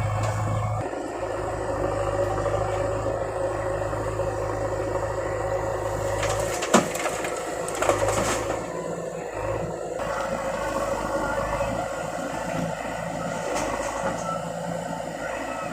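Heavy diesel machinery running steadily under work, with a sharp knock about seven seconds in and a smaller one about a second later.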